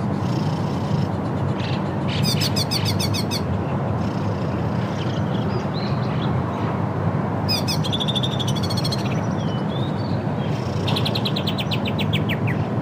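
Birds chirping: three bursts of rapid, repeated high notes, each a second or so long, about two, seven and eleven seconds in, with fainter calls between, over a steady low background noise.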